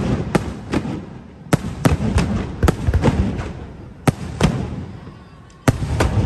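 Aerial fireworks bursting in quick volleys of sharp bangs, each followed by a low rumbling echo. A brief lull comes about five seconds in, then a fresh rapid volley near the end.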